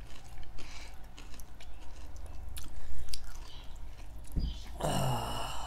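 Close-miked chewing and biting of steam-roasted chicken, with small wet mouth clicks. There is a low thump about four and a half seconds in, and a brief voiced sound near the end.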